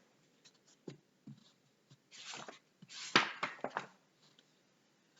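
Handling sounds of a picture book being opened to its first page: a few soft knocks, then two short rustles of paper.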